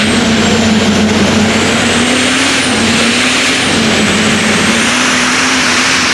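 Tractor engine running hard at high revs, loud and steady, its pitch wavering slightly, with a high whine riding above it that rises and falls a little.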